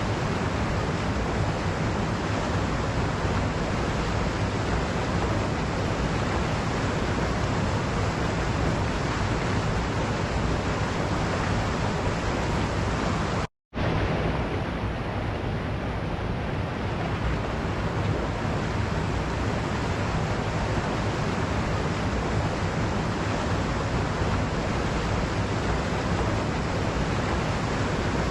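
Waterfall, a steady rush of falling water. About halfway through the sound cuts out completely for a split second, then resumes.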